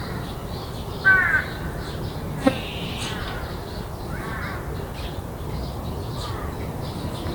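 A crow cawing: one loud caw about a second in, then fainter caws, over a steady pulsing chirr of insects. A single sharp click about two and a half seconds in.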